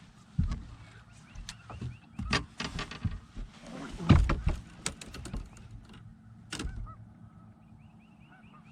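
Irregular knocks and thumps on a bass boat, the loudest about four seconds in, as a just-caught fish is handled. Birds call faintly in the background, more often near the end.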